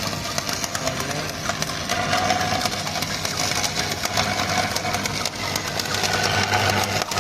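Stick-welding arc with an E6013 rod crackling and sputtering steadily on steel pipe, over a low steady hum.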